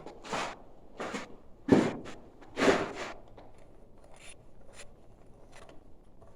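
Homemade air-control valve of 3/4-inch black iron pipe fittings being taken apart by hand. Five short metal scrapes and clinks come in the first three seconds, then a few faint light ticks.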